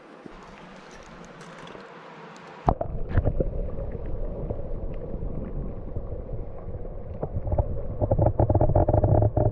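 Steady rush of flowing river water. About three seconds in, a sudden loud, muffled low rumble with knocks and gurgles takes over, growing strongest near the end: the microphone being handled or buffeted close up.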